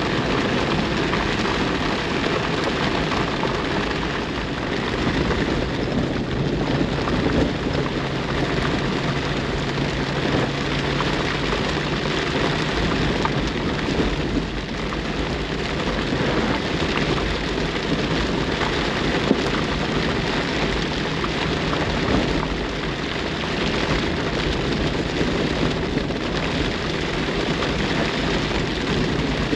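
Heavy rain drumming steadily on a Jeep's top and windshield, heard from inside the cab, with the engine running low underneath as it drives a dirt road.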